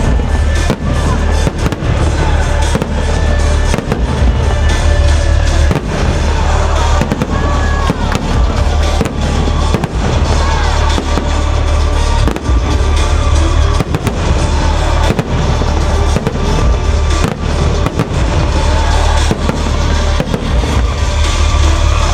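Fireworks display: many sharp bangs of bursting shells at irregular intervals, over music.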